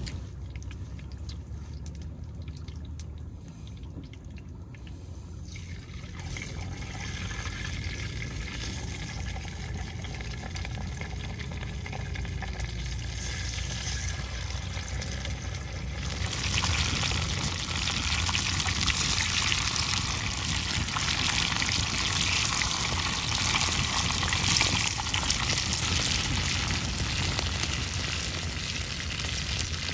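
Spiny tire track eel sizzling as it fries on a hot clay potsherd over an open wood fire. The sizzle starts soft and grows much louder about halfway through, over a low steady rumble.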